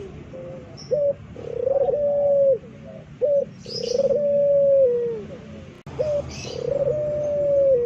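Puter pelung dove cooing: three times, a short clipped note followed by a long, drawn-out coo that holds its pitch and then sags at the end. A few faint, short high chirps sound between the coos.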